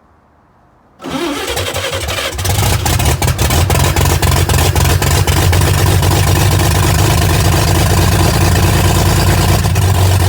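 1947 Chevrolet Stylemaster's inline-six engine, cold, cranked on the starter about a second in. It catches about a second and a half later and then runs steadily.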